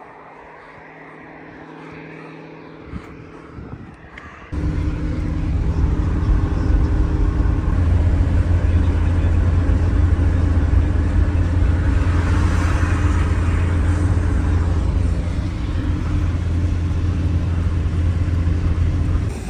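A motor vehicle's engine running steadily, first faint, then, after a sudden change about four and a half seconds in, a loud, steady low drone that lasts until just before the end.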